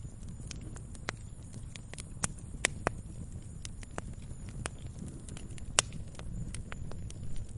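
Wood campfire burning, crackling with irregular sharp pops over a low steady rumble. The loudest pop comes about three-quarters of the way through.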